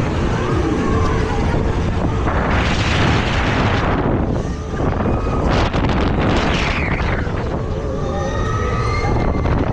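A fairground ride running, with wind buffeting the microphone as it moves and two loud rushing surges of noise, about two and a half and six seconds in.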